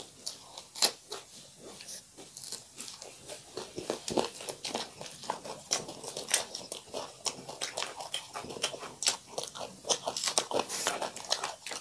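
Close-miked chewing and crunching of crisp food, a dense, irregular run of small crunches and mouth clicks.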